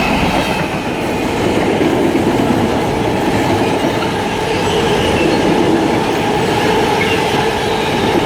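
Class 66 diesel-electric freight train passing through the station, its locomotive and wagons running by on the rails in a loud, steady rumble.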